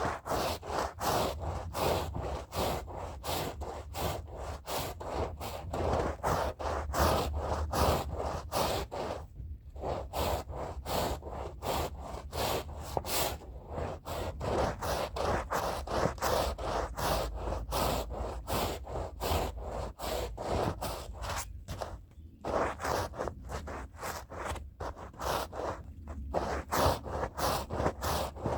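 A stiff hand brush scrubbing a rug's fibres in quick back-and-forth strokes, about three or four a second. The scrubbing pauses briefly twice.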